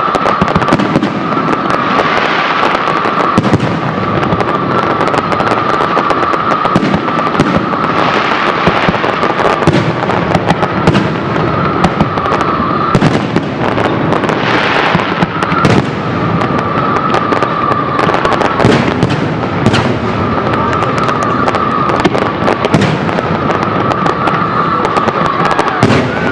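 Fireworks display: a dense, unbroken crackle of rapid bangs and shell bursts. A steady high tone sounds on and off through it.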